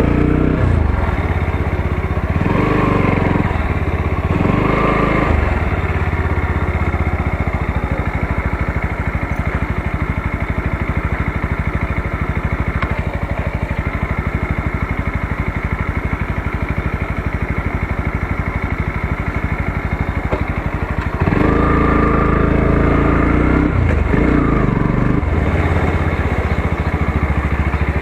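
Motorcycle engine being ridden. It revs up a few times in quick succession at the start, runs steadily for a long stretch, then revs up harder again about three-quarters of the way through.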